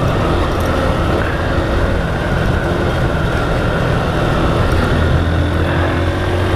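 Motorcycle engine running steadily while riding, over a broad, even rush of wind and road noise.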